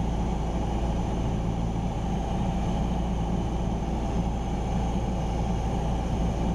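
Cessna 172R Skyhawk's four-cylinder Lycoming engine and propeller droning steadily in flight, heard inside the cockpit.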